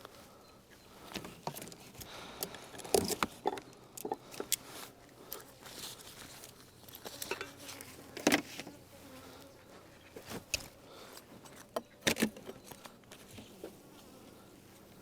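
Honeybees buzzing around an opened hive, with scattered sharp knocks and clatters; the loudest come about 3, 8 and 12 seconds in.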